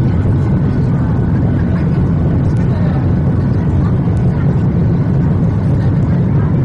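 Steady cabin noise inside a Boeing 737-800 in flight: an even, loud rumble of the engines and airflow, heaviest in the low bass.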